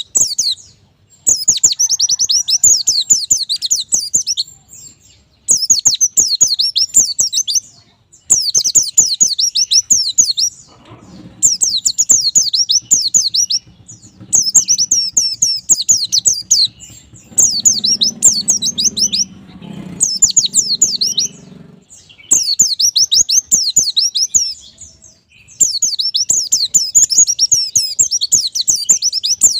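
White-eye (pleci) singing: bouts of rapid, high twittering notes, each a few seconds long, repeated about every three seconds with short pauses between.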